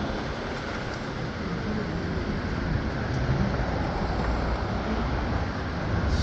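Steady rumble of a moving vehicle, with faint shifting whine-like tones.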